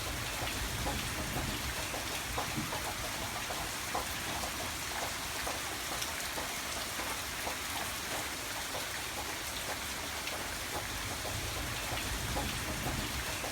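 Steady rain, with individual drops ticking on a surface and a low rumble underneath.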